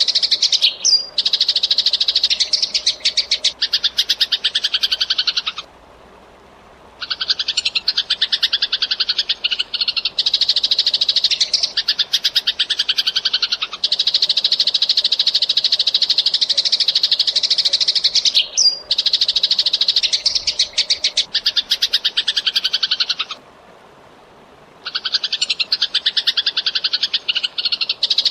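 Eurasian tree sparrows chirping in a fast, dense, unbroken stream of short calls, with two pauses of about a second and a half.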